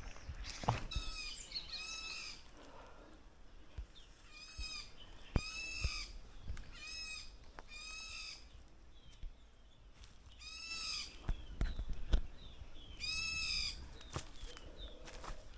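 A bird giving short, nasal, bleat-like calls, about eight of them, several in pairs about a second apart, over scattered clicks and knocks.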